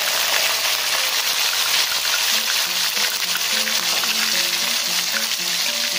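Cubes of white tofu frying in hot oil in a wok: a steady, dense sizzle just after they go in. Faint background music with a simple melody comes in about two seconds in.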